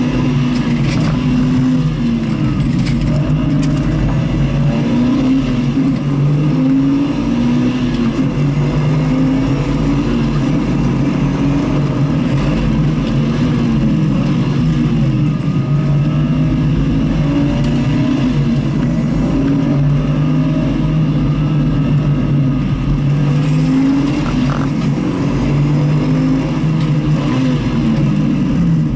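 A vehicle's engine lapping a race circuit, its pitch climbing and dropping again and again as it accelerates, shifts and slows for corners, over a steady rushing noise.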